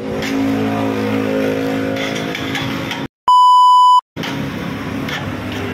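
NS125 Fi motorcycle engine running steadily, cut off abruptly about three seconds in by a loud, steady electronic beep lasting under a second; after a brief silence the engine sound resumes.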